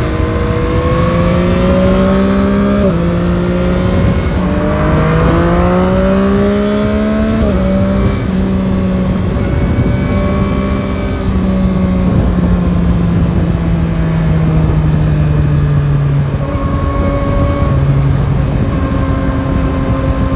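Yamaha Tracer 9 GT's CP3 three-cylinder engine pulling hard and rising in pitch, with a sudden drop at each upshift, about 3 s and 7.5 s in. It then settles into a steady cruise, the pitch slowly sinking with some wind noise underneath.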